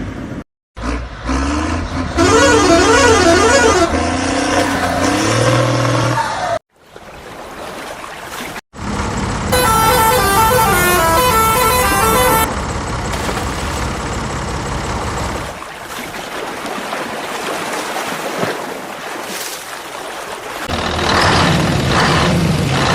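An edited run of toy-vehicle sound effects: engine sounds and horn toots, with a wavering pitched tone a few seconds in and a short run of stepped electronic notes about ten seconds in, broken by abrupt cuts to silence.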